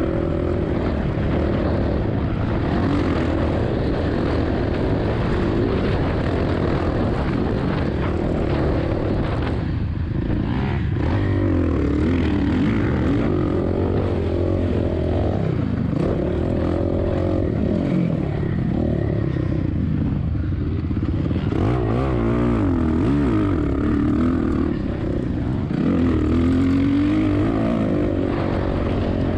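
Suzuki RM-Z450 single-cylinder four-stroke dirt bike engine revving up and down continuously while being ridden, its pitch rising and falling repeatedly with throttle and gear changes.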